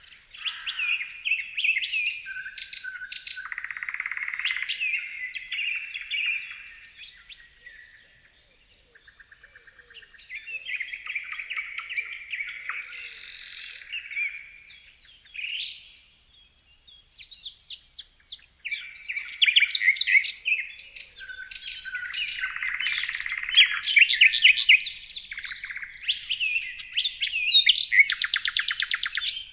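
Songbirds chirping and singing, several varied calls and trills overlapping, with brief lulls; a fast, rapid trill near the end.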